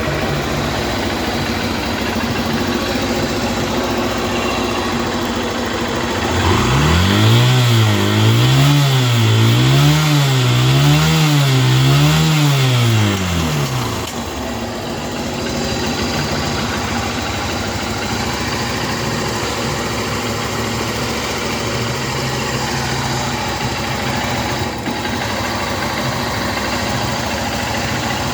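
Motorcycle engine idling, then revved for about seven seconds in the middle, its pitch rising and falling about four times before dropping back to a steady idle.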